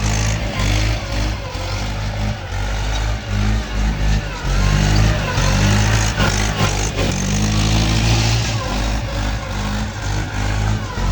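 Mahindra tractor's diesel engine running steadily under work load.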